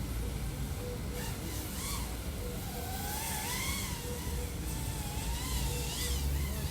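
Small FPV quadcopter's electric motors and 3.5-inch propellers whining over a low rumble. The whine wavers up and down in pitch with throttle changes and is clearest from about halfway through.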